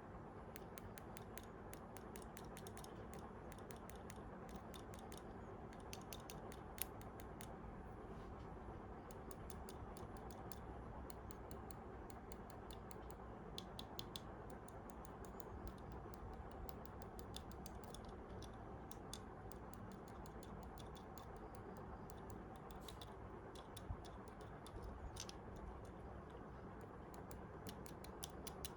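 Faint, irregular small clicks and taps over a low steady hum, as of a 1:64 die-cast toy car being handled and turned in the hands. Two slightly sharper clicks stand out, about 7 and 24 seconds in.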